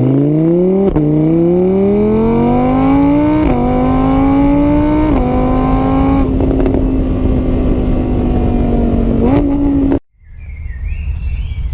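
A motor vehicle engine accelerating, its pitch climbing in steps with a brief dip at each gear change, then holding a steady high pitch before cutting off suddenly about ten seconds in. After the cut there is quieter noise with a few short high chirps.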